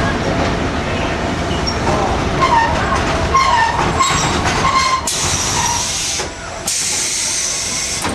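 Tram running with a rumble and wavering squealing tones, then two bursts of loud hissing, the first about five seconds in and the second about a second and a half later.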